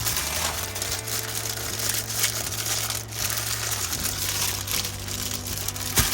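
Crinkling and rustling of packaging being handled and opened, a dense crackly noise that stops suddenly near the end.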